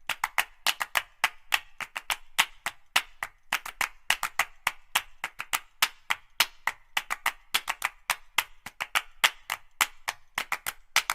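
Background music stripped down to dry percussion: a busy run of clap-like and wood-block hits, several a second.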